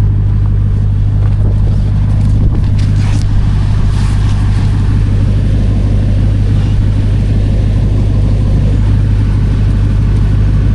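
Ram TRX's supercharged 6.2-litre V8 idling, a steady low hum that holds unchanged throughout.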